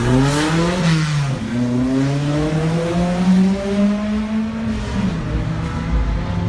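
Touring race car engines accelerating hard on the track. The pitch climbs, then drops sharply at an upshift about a second in and again near five seconds.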